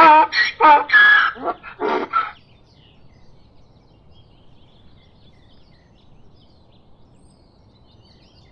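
A donkey braying in rapid, pulsing hee-haw cycles that stop about two seconds in. After that only faint bird chirps over a low background remain.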